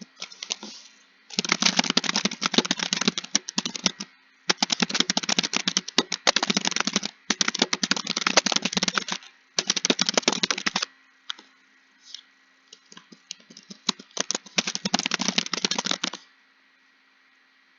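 Computer keyboard typed fast: several bursts of rapid key clicks a few seconds long, with short breaks between them, a stretch of slower single keystrokes midway, and a pause near the end.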